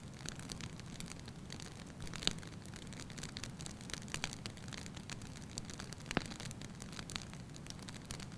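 Wood fire burning in a fireplace: a low steady rumble of flames with irregular crackles and sharp pops, the loudest pops about two seconds in and again about six seconds in.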